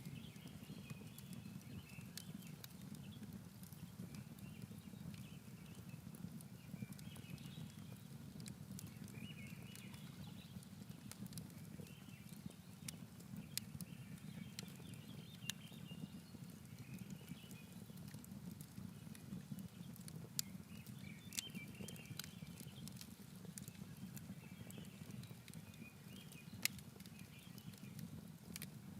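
Campfire crackling, with irregular sharp pops of burning wood over a low steady rumble. Faint high chirps recur every second or two.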